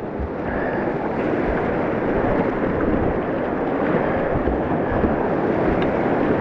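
Creek water rushing through a whitewater rapid, a steady rushing noise that grows louder over the first second, with wind rumbling on the action-camera microphone.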